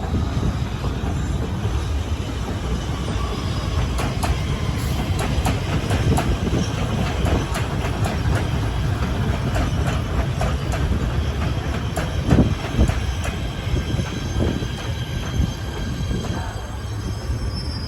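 A train passing close by with a steady rumble and irregular clacks of wheels over the rails. A faint high wheel squeal appears near the end.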